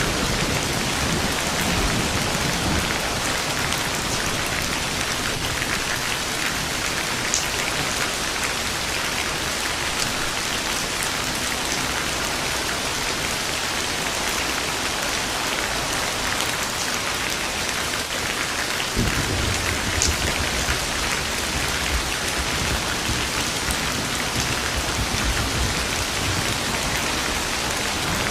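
Steady heavy rain falling, with low rolling thunder rumbling from about two-thirds of the way in until near the end.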